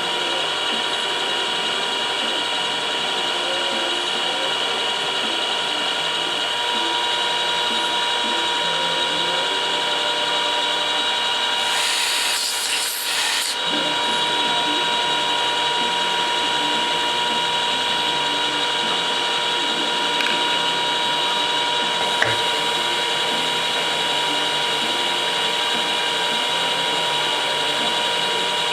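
Milling machine running with a 6 mm end mill taking a finishing pass along a deep slot, a steady whine made of several held tones. A brief noisy burst comes about twelve seconds in, and a single click comes a little past twenty seconds.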